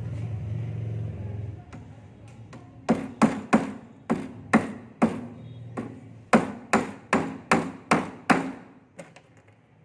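Hammer striking, about thirteen sharp blows in quick runs over some five seconds, typical of nailing during carpentry work on a wooden door. A low hum runs for the first second and a half, before the blows begin.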